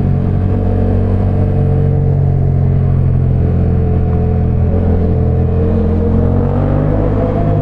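Sport motorcycle's parallel-twin engine running under way at a fairly steady pitch, with small throttle changes.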